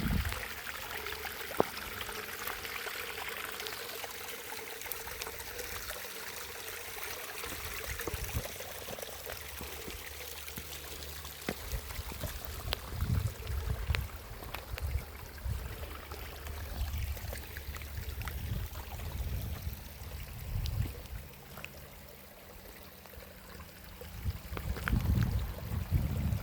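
Steady running water, with uneven low rumbles coming and going and one sharp click about a second and a half in.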